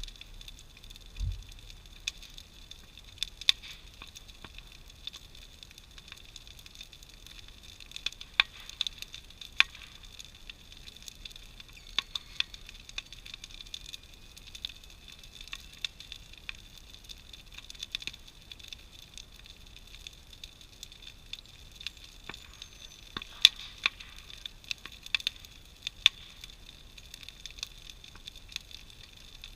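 Large wood-pile bonfire crackling and popping: irregular sharp snaps scattered over a steady faint high hiss, with a few louder clusters of pops.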